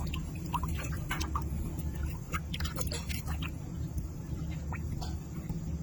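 Irregular small clicks and smacks over a steady low hum.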